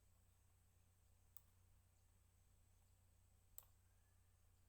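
Two faint computer mouse clicks, about two seconds apart, over a low steady hum.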